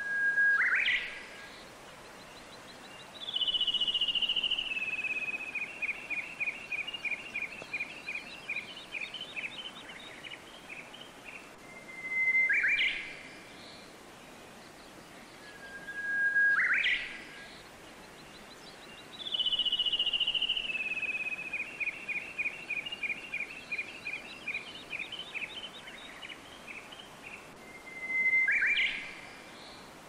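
A songbird singing: short sharp rising calls about four times, and twice a long song of several seconds that opens with a fast high trill and slows into a falling run of repeated notes. Underneath is a faint steady rush of flowing water.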